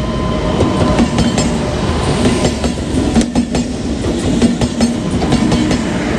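Train passing close by on the railway track, its wagon wheels clattering and clicking over the rail joints with a steady low hum underneath.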